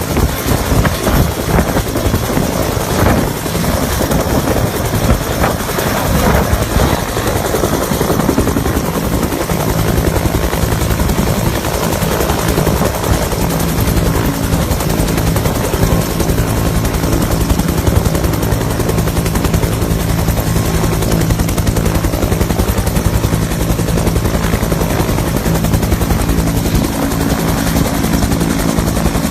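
Search-and-rescue helicopter running close and loud, its rotor giving a fast, even chop. About ten seconds in, a steady low engine drone joins the chop and holds.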